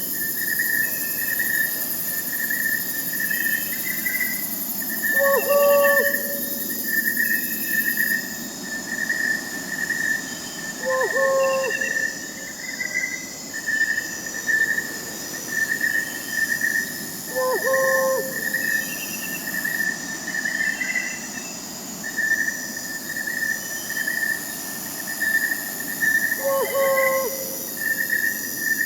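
Night chorus of crickets chirping in a steady pulsing trill, with fainter high insect buzzing, and an owl giving a short hoot four times, roughly every six seconds.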